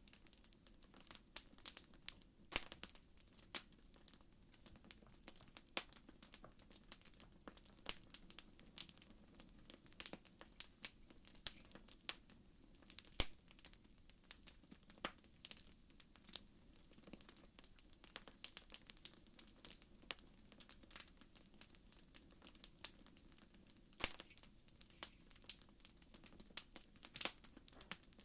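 Faint campfire crackling: irregular sharp pops and snaps of burning wood over a soft low rushing of the flames.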